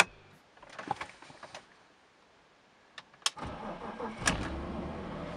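BMW E46 engine being started with the key: a few clicks, then the engine cranks about three and a half seconds in, catches and settles into a steady idle. The start is slightly sluggish, which the owner puts down to a tired battery.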